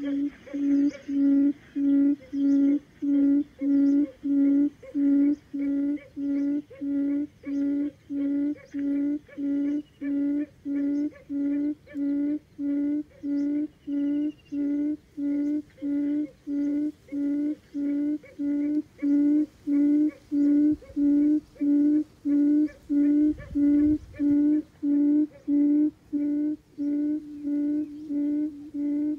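Buttonquail (Vietnamese 'cút rừng') calling: a low hoot repeated steadily, nearly two notes a second, on one unchanging pitch.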